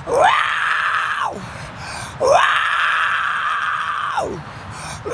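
Unhappy cat yowling: two long, drawn-out meows, each rising in pitch, held, then dropping away, with a third starting at the very end.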